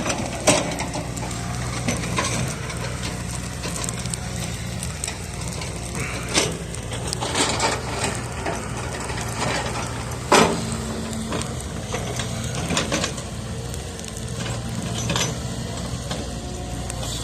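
Wood fire burning, crackling with irregular sharp pops, the loudest about half a second and ten seconds in, over a low steady hum.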